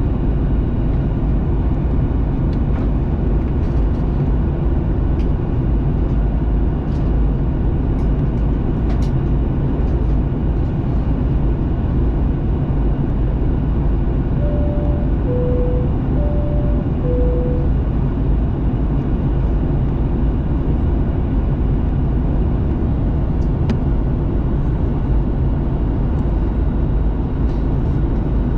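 Steady low rumble of engine and airflow inside a Boeing 737-800 cabin on final approach. About halfway through, a two-tone cabin chime sounds twice, each time a high tone followed by a lower one.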